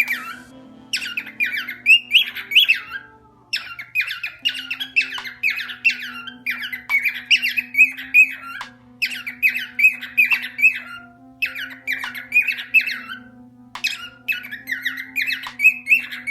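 Parrot squawking in rapid bursts of short, falling chirps, each burst about a second long and repeated over and over with brief pauses between.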